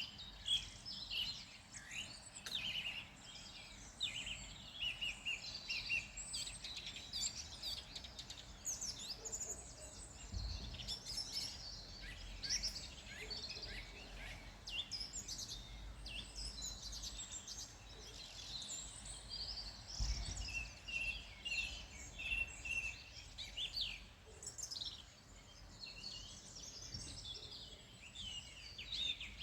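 Several wild songbirds singing and calling at once: a dense chorus of quick, high chirps and trills overlapping without pause. A low rumble swells twice underneath, around the middle and about two-thirds of the way in.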